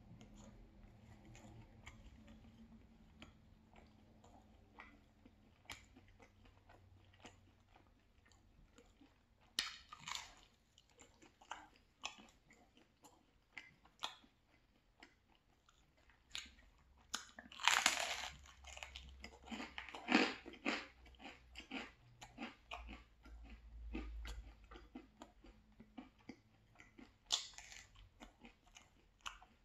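A person chewing a mouthful of spicy pepperoni pizza, with many small wet mouth clicks and a few louder bites into the crust, the loudest just past the middle and another near the end.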